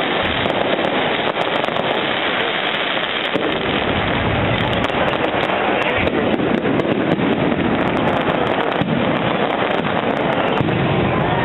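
Aerial fireworks display bursting overhead: a dense, unbroken run of bangs, pops and crackles with no pause.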